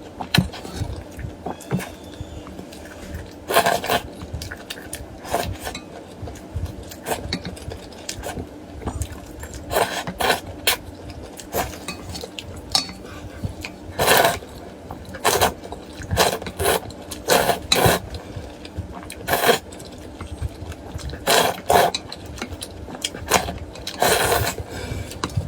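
Close-miked eating of duck blood vermicelli soup: irregular slurps of noodles and broth, mixed with utensils clinking and scraping against the bowl.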